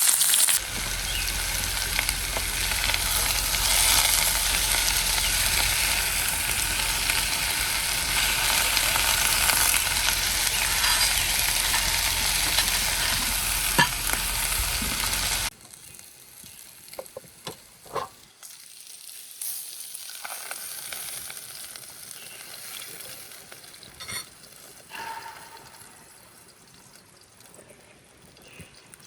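Steak and vegetables sizzling loudly in a cast-iron frying pan. About halfway through the sizzle cuts off suddenly, leaving a much quieter stretch with a few light clicks and knocks.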